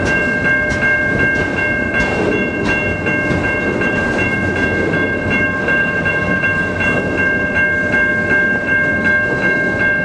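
Freight train cars rolling past, wheels clicking over the rail joints, while the crossing's warning bell rings in quick, evenly repeated dings over the rumble.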